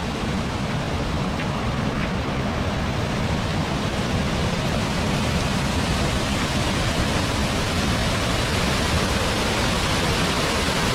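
A waterfall's steady rush of falling water, an even noise that holds without a break.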